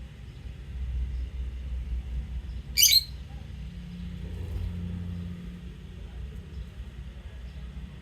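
A lovebird gives one short, loud, shrill chirp about three seconds in, over a steady low background rumble.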